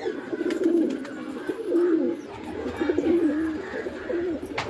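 Several domestic pigeons cooing at once, their wavering calls overlapping. A single sharp click comes near the end.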